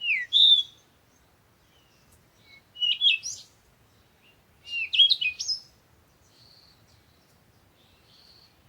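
Birds chirping in three loud clusters of quick, sweeping high-pitched calls, with fainter calls near the end.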